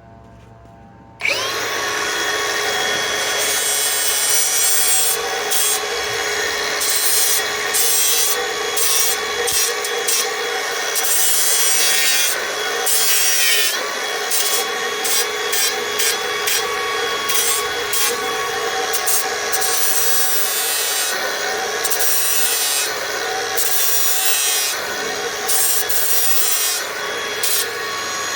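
Milwaukee M18 Fuel cordless angle grinder with a 36-grit disc grinding a metal billet. It starts suddenly about a second in and runs continuously, with a steady motor whine under a gritty scraping that comes and goes as the disc bites the metal.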